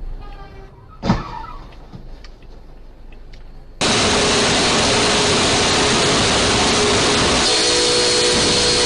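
Vehicle sounds: a sharp knock about a second in, then an abrupt cut to loud, steady engine and road noise.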